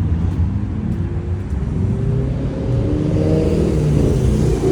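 Car engine running with a deep rumble and revving up, its pitch climbing gradually through the second half.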